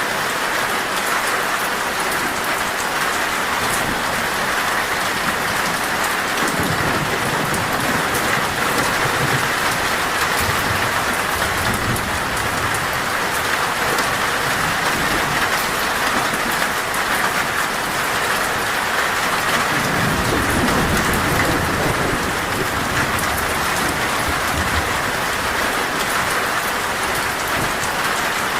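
Torrential rain drumming steadily on a metal roof, with low rolls of thunder rumbling twice, once about a quarter of the way in and again past the middle.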